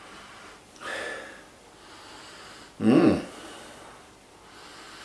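A man sniffing a glass of beer: a breathy sniff about a second in, then a short, louder hum through the nose near the middle, followed by faint breathing.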